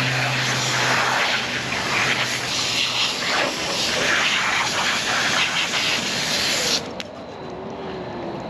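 Loud steady rushing hiss that cuts off abruptly near the end.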